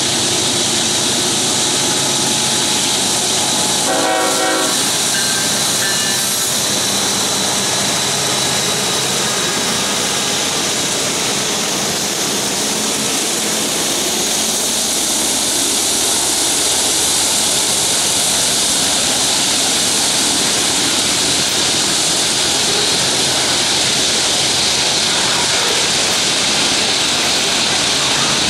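Freight train led by GE diesel locomotives, an AC45CCTE, AC44CWCTE and AC44CW, with an EMD GP38-3 trailing, passing close. The engines run while steel wheels roll over the rails and bridge, and a locomotive horn sounds briefly about four seconds in.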